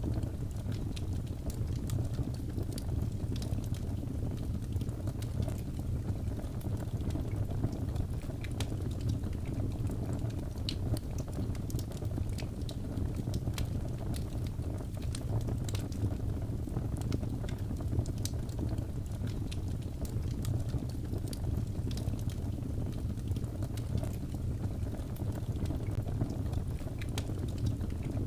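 Wood fire burning: a steady low rumble of the flames with frequent small, sharp crackles and pops from the burning wood.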